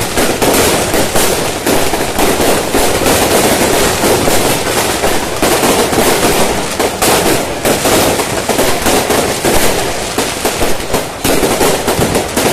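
Fireworks going off in a dense, continuous barrage of overlapping bangs and crackles, with no break.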